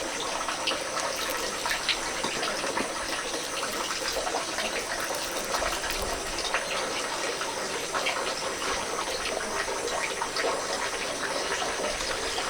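Water running steadily, with a continuous splashing patter.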